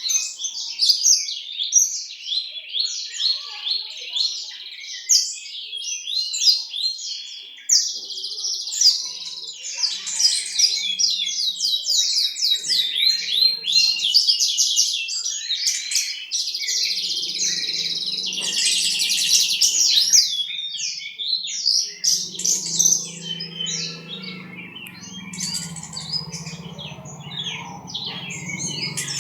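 Javan bush lark (branjangan) singing a long, rapid, nearly unbroken run of chirps and trills. A low hum sits underneath in the second half.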